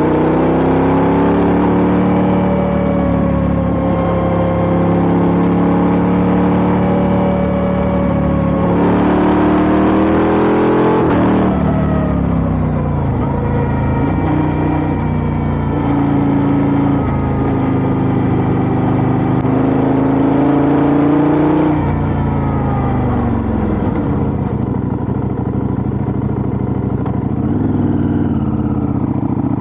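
KTM 890 Duke R's parallel-twin engine through an Austin Racing GP1R exhaust, heard on board while riding. The revs climb and hold steady, rise and drop quickly in a short burst about nine to eleven seconds in, hold steady again, then fall away about twenty-two seconds in as the bike slows.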